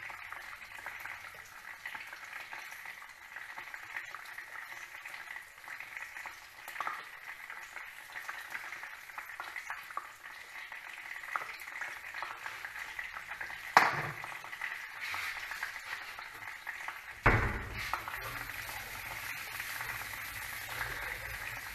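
Chicken frying in hot oil: a steady sizzle with fine crackling. A sharp knock comes about fourteen seconds in and another about three seconds later, after which a low hum sets in under the sizzle.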